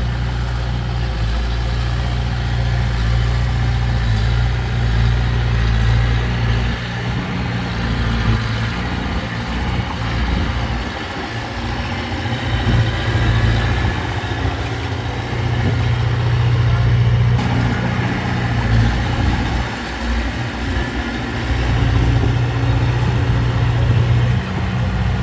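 Diesel engine of heavy earthmoving machinery running. Its low drone weakens and comes back a few times.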